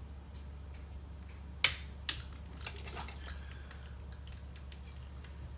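Click-type inch-pound torque wrench tightening chainsaw cylinder mounting bolts: a sharp click about a second and a half in, a lighter click half a second later, then a few small ticks. A steady low hum runs underneath.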